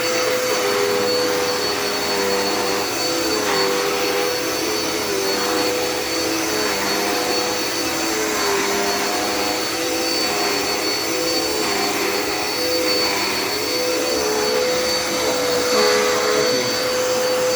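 Dirt Devil Endura Reach vacuum cleaner running steadily, with a high whine and a lower hum that dips briefly in pitch every couple of seconds.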